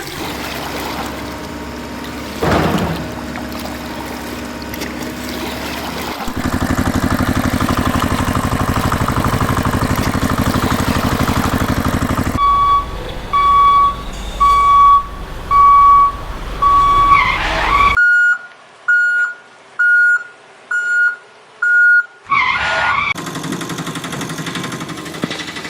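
Engine sound effects of heavy vehicles running steadily, then a run of evenly spaced electronic beeps: about four longer ones, then five shorter, higher ones roughly a second apart, with swishing sweeps between.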